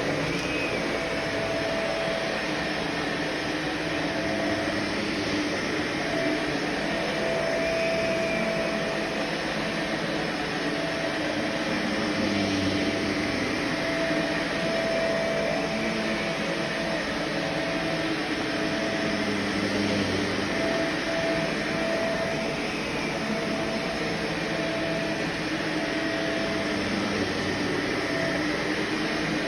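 Vacuum cleaner running steadily, its motor whine cutting in and out every second or so over the suction noise.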